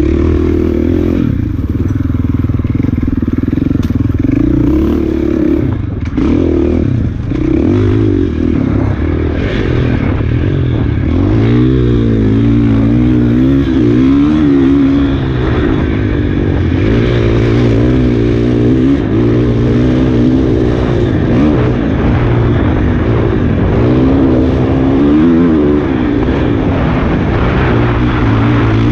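Enduro dirt bike engine under way, its pitch constantly rising and falling as the throttle is worked along the trail.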